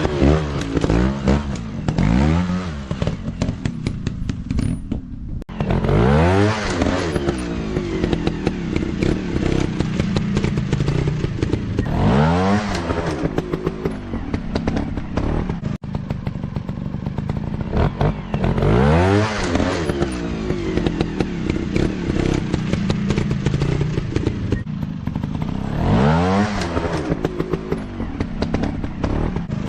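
Dirt bike engines running and revving, the pitch climbing and dropping back in repeated surges every few seconds, with some clatter.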